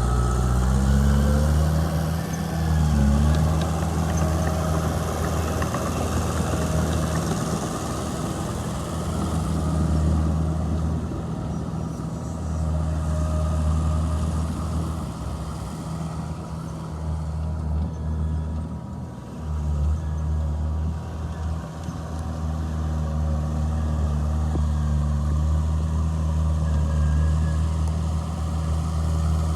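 Heavy diesel engine of earthmoving machinery running under load. Its pitch dips and rises twice in the first few seconds, then it runs fairly steadily.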